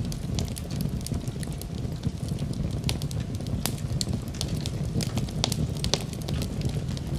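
Wood fire crackling in a fireplace: many sharp, irregular pops and snaps over a steady low rumble of flames.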